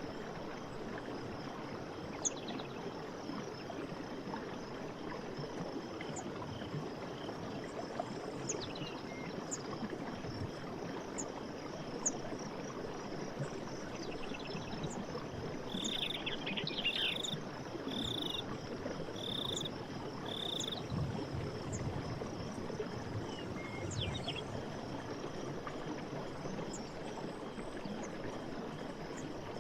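Night forest ambience: a steady high insect chorus over a low, even rushing hiss, with scattered short chirps. About halfway through comes a run of five short, evenly spaced calls.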